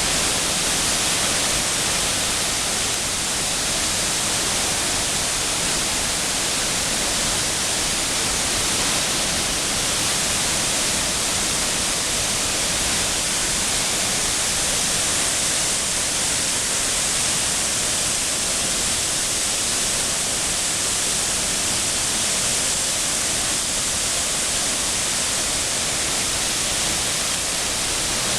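Nunobiki Ontaki waterfall pouring: a steady, unbroken rush of falling water, heaviest in the hiss.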